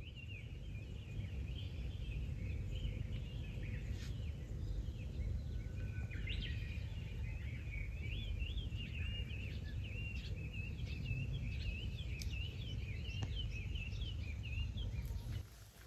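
Birds chirping and warbling continuously in quick, overlapping calls, over a steady low rumble of outdoor noise; it all cuts off abruptly near the end.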